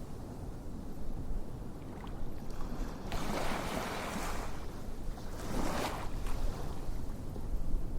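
Ocean waves washing in and drawing back, a steady low rush of surf with two swells of spray, about three seconds in and again near six seconds.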